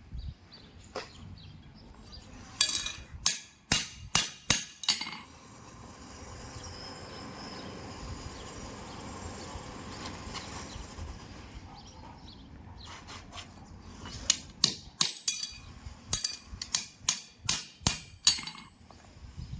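Farrier's hammer striking metal with a bright ringing tone, in two runs of quick blows, about half a dozen to a dozen each. Between the runs is a steady hiss.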